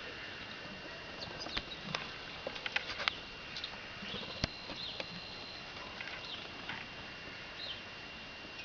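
Great spotted woodpecker and Eurasian nuthatch moving about a feeding rack: irregular sharp taps and scrabbling, with a few short high chirps. A faint steady high tone runs underneath.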